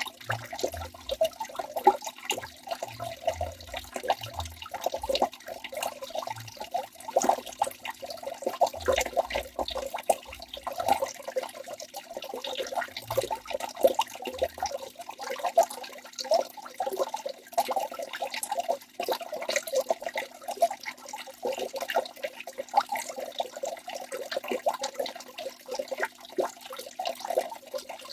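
Waterfall: water pouring and splashing steadily, a dense run of small splashes with no let-up.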